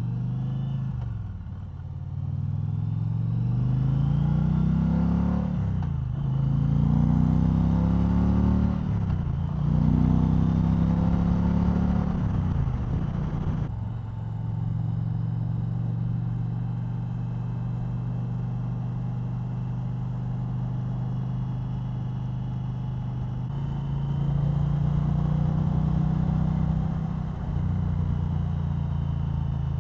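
2020 Indian Challenger Limited's liquid-cooled V-twin accelerating hard through the gears. The engine note climbs and drops back at three upshifts in the first half, then settles into a steady cruise, with a short rise and drop near the end.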